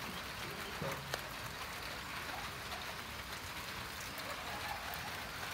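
Steady patter of light rain on foliage and wet ground, with a single click about a second in.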